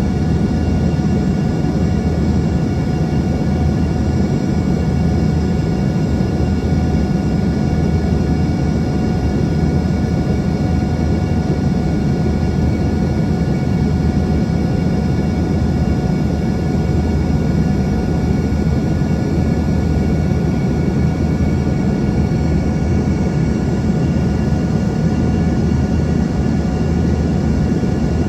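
Steady cabin noise inside an Embraer ERJ-145 in flight: a deep, even drone from its two rear-mounted Rolls-Royce AE3007 turbofans and the airflow, with a steady whine of several fixed tones above it.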